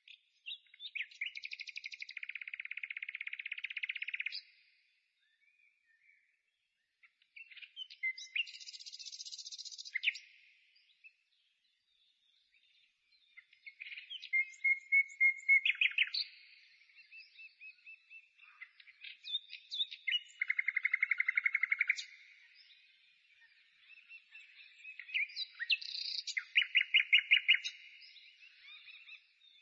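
Bird song: phrases of chirps and rapid trills a few seconds long, with short pauses between them.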